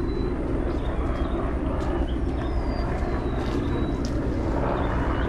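An engine running steadily with an even low drone, while high thin whistles glide downward every second or two.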